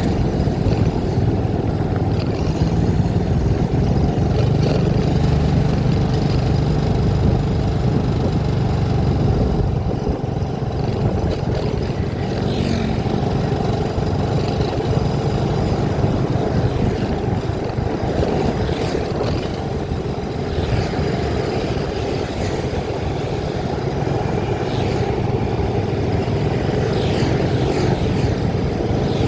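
Vehicle driving along a road: steady engine and road noise that rises and falls slightly.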